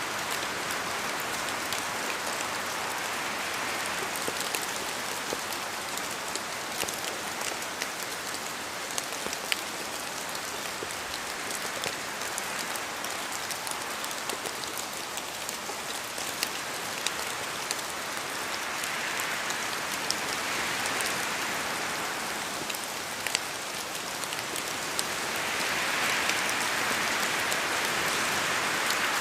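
Steady rain falling, with many close drops ticking on a surface over the hiss of the downpour; the rush of rain swells louder a few times, most toward the end.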